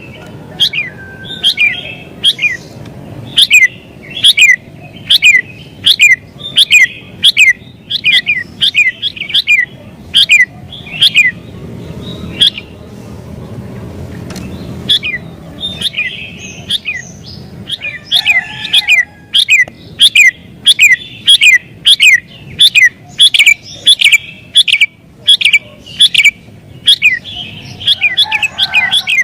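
Sooty-headed bulbul (kutilang) singing persistently: a rapid run of short, sharp whistled notes, several a second, easing off for a few seconds near the middle before picking up again.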